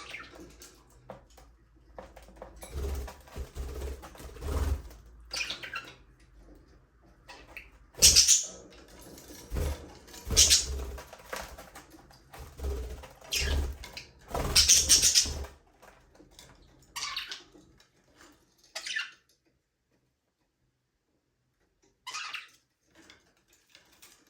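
Budgerigars chirping and chattering in irregular scratchy bursts, with soft low thumps among them. They fall quiet for a few seconds near the end, then give one more chirp.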